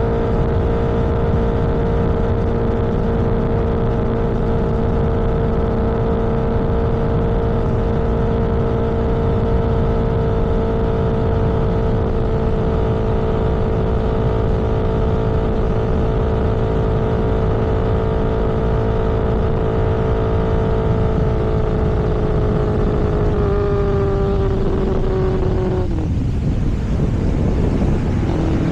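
Vehicle engine running steadily at cruising speed, with wind and road noise. Its note sags a little about 23 seconds in, breaks off briefly around 26 seconds, then returns at a lower pitch near the end, as when slowing or shifting gear.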